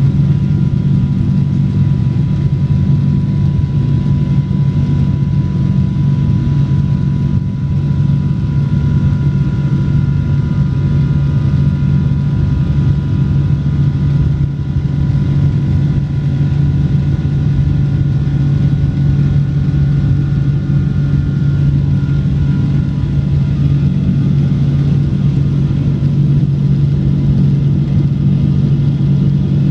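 Rolls-Royce jet engines of a Boeing airliner running steadily at high power: a loud, even low drone with faint steady whining tones above it.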